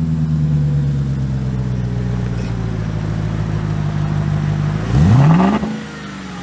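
VW Touareg V8 running through open vacuum exhaust cutout valves, bypassing the mufflers: the engine holds a steady raised speed, then about five seconds in is blipped in a quick, loud rev that rises sharply and drops back to idle.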